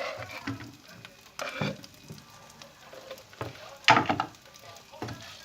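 Food sizzling in a frying pan while it is stirred, with a few sharp knocks of a utensil against the pan, the loudest about four seconds in.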